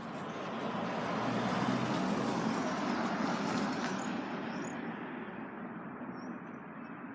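A passing road vehicle: a rushing noise that swells, peaks about two to three seconds in, then slowly fades away. A few faint high bird chirps come near the end.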